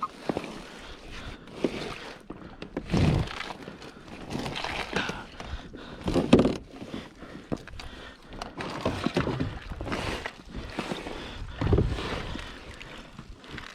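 Water sloshing and gurgling against a plastic kayak, with irregular thumps and knocks.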